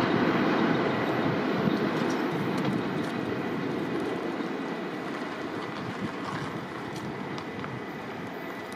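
A train rolling past and away, its steady rumble of wheels on rail fading gradually.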